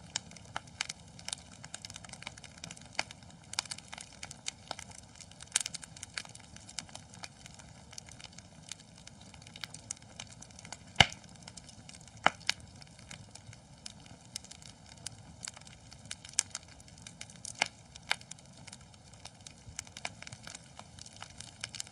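Wood fire burning in a fireplace, crackling with irregular sharp pops over a soft steady hiss; the loudest pop comes about halfway through, followed by another about a second later.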